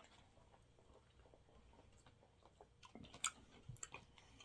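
Faint chewing and mouth sounds of someone eating sushi, with a few sharp clicks about three seconds in.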